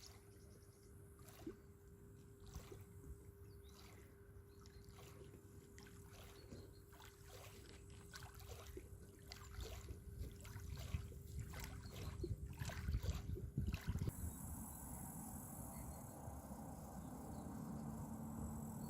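Small waves lapping and splashing at a riverbank, the splashes coming closer together and stronger a little past halfway, over a faint steady hum. Near the end the sound changes abruptly to a quiet, even hiss.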